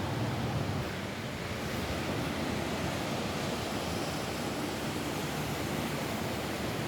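Steady rain falling on a roof: a continuous, even hiss with a deep rumble underneath.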